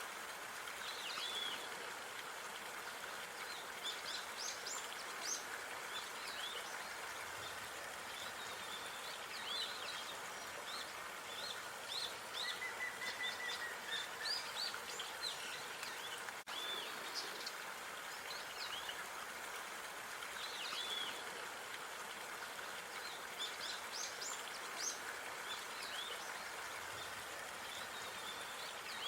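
Outdoor park ambience: small songbirds chirping and singing in quick short notes over a steady background hiss, with a brief dropout about halfway through.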